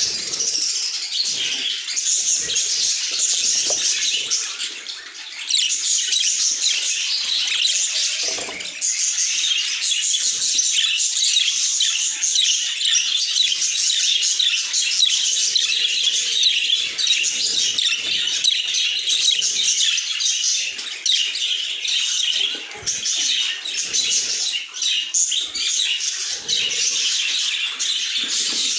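Budgerigars chirping continuously in a dense stream of quick high chirps, with a brief lull about five seconds in.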